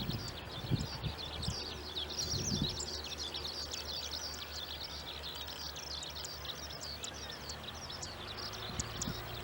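Many quick, high-pitched chirps overlapping without a break, from birds or insects, over a faint steady low hum.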